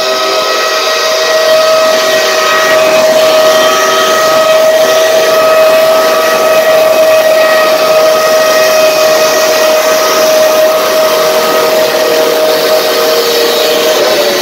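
Geared steam locomotive's chime whistle sounding one long, continuous blast of several tones at once, over a steady steam hiss; the pitch wavers slightly near the end.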